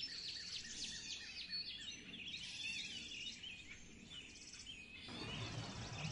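Faint birds chirping in the background: many short, quick rising and falling calls.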